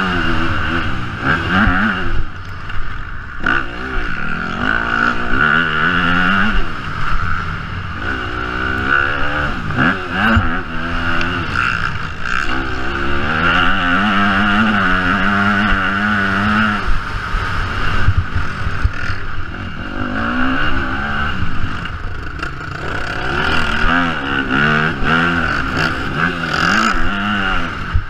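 Yamaha motocross bike's engine being ridden hard, revving up and falling back again and again as the rider accelerates and shifts.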